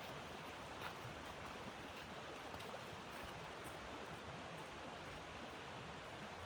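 Steady rushing of blizzard wind, with a few faint clicks scattered through it, one a little louder about a second in.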